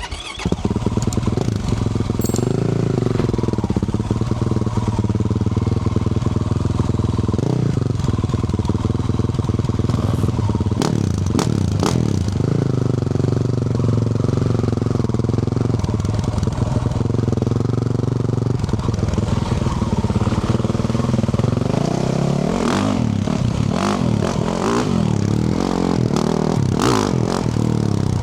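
2024 Yamaha YZ450F's single-cylinder four-stroke engine running through a Yoshimura RS-12 exhaust under steady throttle while riding, heard close from the exhaust side. There are a couple of sharp knocks about eleven and twelve seconds in, and in the last several seconds the throttle is repeatedly eased off and opened again, so the engine note dips and rises.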